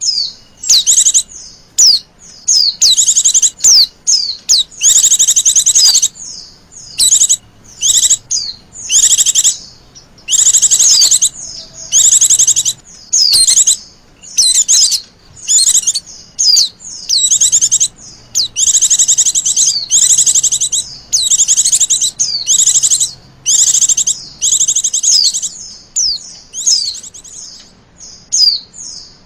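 Female white-eye (Zosterops) calling: a dense series of short, high chirping phrases, many with quick falling notes, repeated one after another with brief gaps. It is the female call used to lure male white-eyes into singing.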